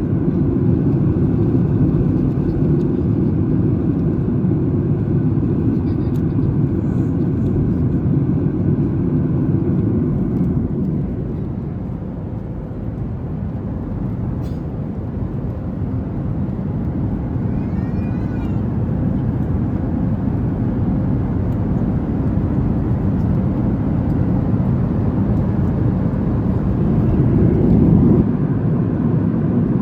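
Steady low roar inside the cabin of a Boeing 737 MAX 8 in flight, from its CFM LEAP-1B turbofans and the air rushing past the fuselage. It eases off slightly about twelve seconds in.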